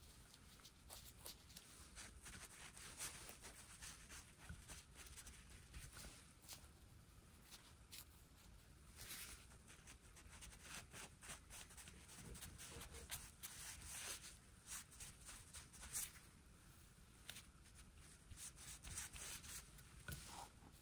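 Near silence with faint, scattered scratching and light clicks of small hand work.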